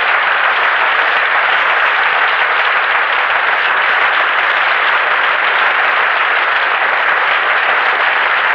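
Studio audience applauding, a dense, steady clapping at the close of a sung number.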